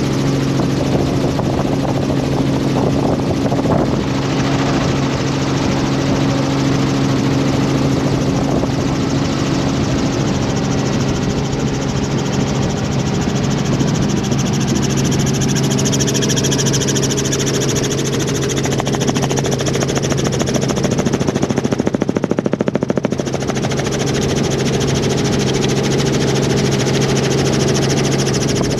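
Helicopter engine and rotor running steadily: a loud, even drone with a fast rotor beat running through it.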